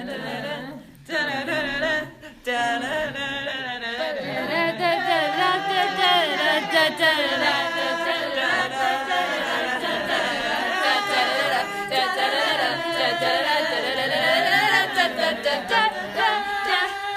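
A cappella vocal group singing, several voices in harmony without instruments, with a couple of short breaks in the first seconds before running on; it cuts off abruptly at the end.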